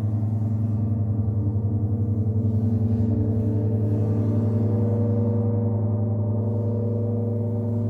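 Gong sounding in a long sustained drone, a deep hum layered with many overtones, its loudness wavering quickly and evenly.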